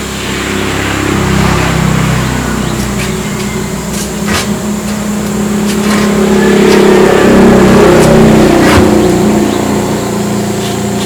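A large engine running steadily, its speed and loudness rising about six seconds in and easing off near the end. A few sharp metallic knocks sound over it.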